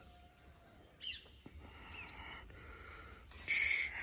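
Birds chirping: a few short high-pitched calls, with a quick gliding chirp about a second in and the loudest call just before the end.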